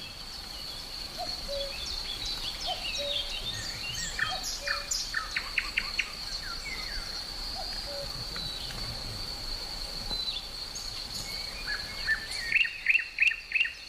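Several wild birds singing and calling, with chirps and quick trills of repeated notes, the loudest run of notes near the end. Under them runs a steady high insect drone, like crickets.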